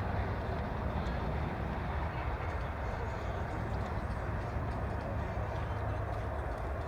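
Steady low rumble with a hiss over it, holding even without rising or falling.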